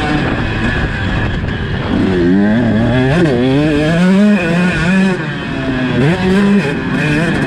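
Motocross bike engine revving hard, its pitch climbing and dropping several times as the rider accelerates and backs off.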